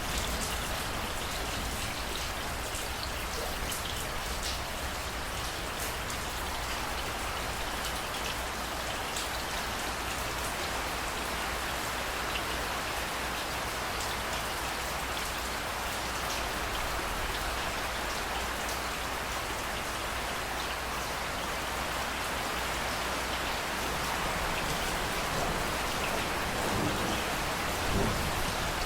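Steady rainfall, an even hiss with scattered ticks of single drops. The level rises slightly near the end.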